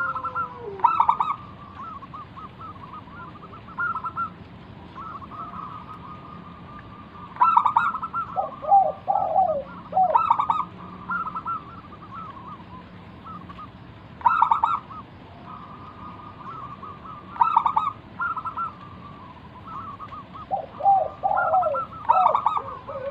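Zebra dove (perkutut) cooing song: bursts of quick, stuttering notes come every two to four seconds. Strings of softer notes run between the bursts, and a lower phrase follows some of them.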